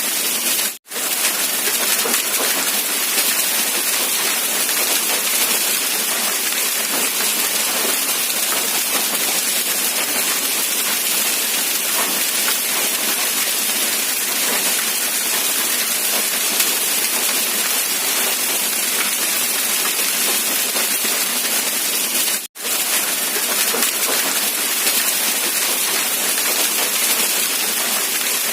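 Steady rain falling, an even, dense hiss. The sound drops out for a split second twice, shortly after the start and about 22 seconds in.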